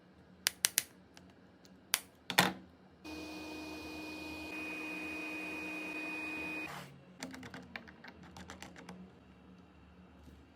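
Several sharp clicks of small tools or parts, then a small electric motor whirs steadily for about three and a half seconds and cuts off, followed by a quick run of lighter clicks and rattles.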